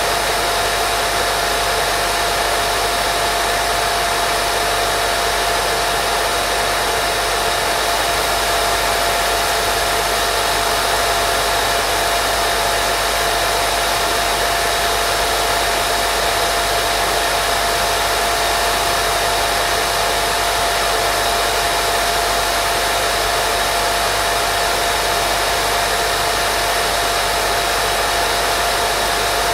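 Continuous white-noise sleep sound: an even, unchanging hiss with a steady whine running through it, like a hair dryer.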